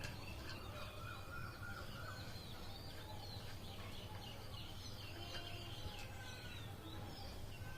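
Birds chirping: many short, scattered chirps over a steady low hum.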